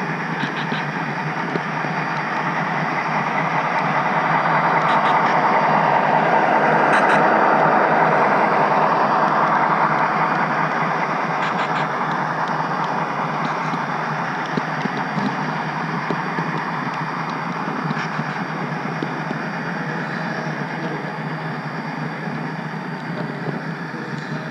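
HO-scale model train running along the track, a steady rumble of wheels on rails that swells louder for a few seconds around the middle and then eases off, with a few light clicks.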